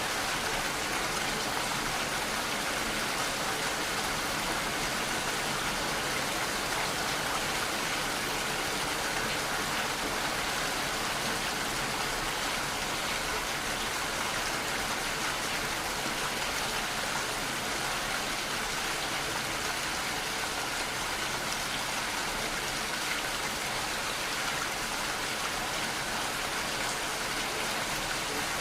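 Steady rainfall, an even, unbroken hiss of many raindrops falling.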